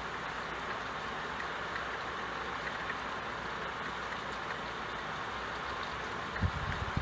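Steady rain falling, an even hiss with a few low thumps about six and a half seconds in.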